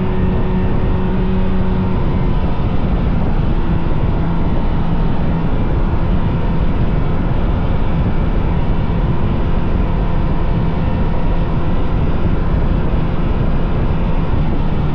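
Vintage two-stroke snowmobile engine running steadily at cruising speed, its pitch shifting slightly a couple of times, over a steady rush of noise.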